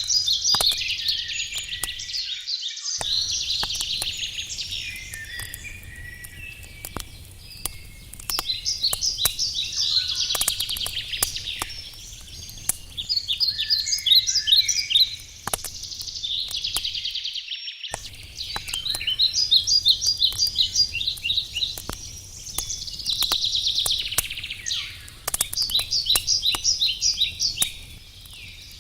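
Songbirds singing loud phrases of rapid repeated notes over a wood campfire's crackling, with scattered sharp pops and a low steady hush. The background briefly drops out twice.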